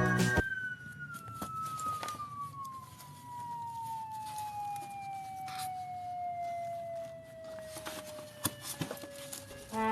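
One long whistle-like tone that falls slowly and steadily in pitch for about nine seconds, with a few faint clicks along the way. Music breaks off just before it starts and comes back as it ends.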